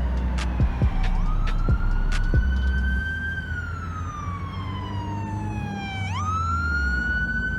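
Police car siren wailing: the pitch climbs quickly, rises slowly, then sinks slowly over several seconds before climbing again about six seconds in, over a steady low rumble.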